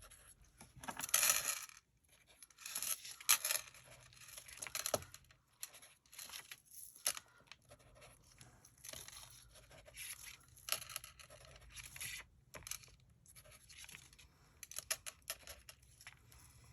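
Pen tip scratching across paper in short, irregular strokes, drawing little squiggles.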